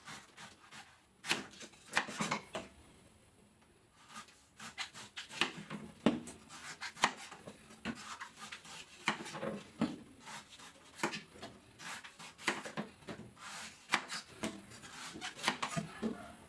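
Fresh coconut being cut and scraped with a blade: an irregular run of sharp scrapes and knocks on the husk and shell.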